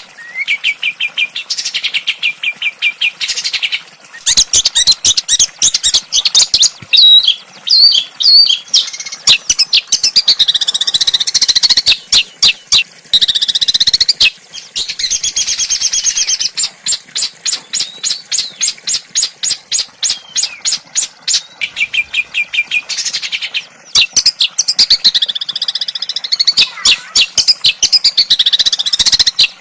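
Small songbirds singing without letup: fast runs of sharp, high repeated chirps and chattering trills, pausing only briefly a few times.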